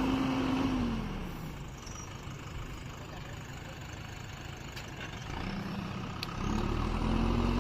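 Diesel engine of a JCB backhoe loader working: its revs drop about a second in, it runs low and quieter for a few seconds, then revs back up near the end.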